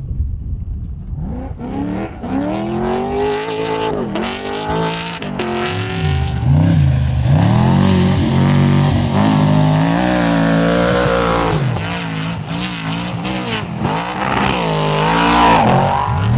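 Off-road race truck engine revving hard, its pitch repeatedly rising and dropping with throttle and gear changes, getting louder about six seconds in.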